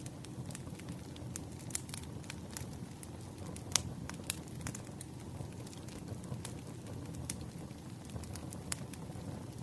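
Wood fire crackling: a steady low hiss with irregular sharp pops and snaps, the loudest snap nearly four seconds in.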